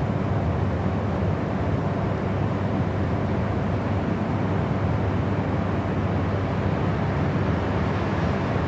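Steady, unchanging white-noise sleep track: an even rushing hiss, deeper and fuller in the low end than pure white noise.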